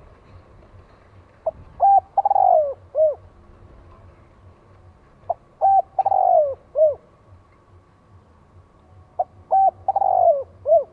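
Spotted dove cooing its territorial call three times, about four seconds apart. Each phrase is a couple of short coos, then a longer coo that falls in pitch, then one last short coo.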